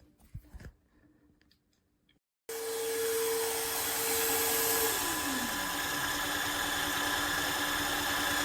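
A few light handling clicks, then about two and a half seconds in a wet-dry floor vacuum switches on abruptly and runs with a loud steady rush of suction. A tone in its running noise glides down in pitch about halfway through while the rush carries on.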